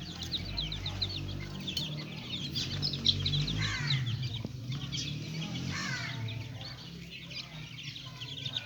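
A group of young chicks peeping, a dense chatter of short high cheeps, with a few louder downward-sliding calls about four and six seconds in, over a low steady hum.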